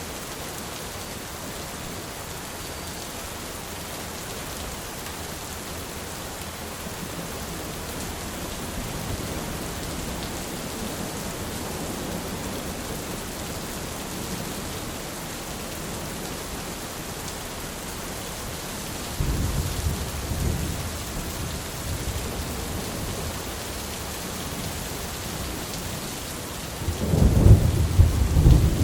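Steady rain falling, with rolls of thunder: a low rumble swells about two-thirds of the way in and a louder, closer roll comes near the end.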